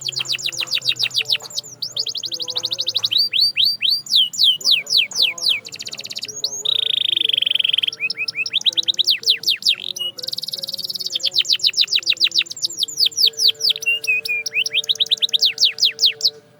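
Domestic canary singing: fast trills of rapidly repeated falling notes in runs of a few seconds, with one steady, buzzy held note a little over six seconds in.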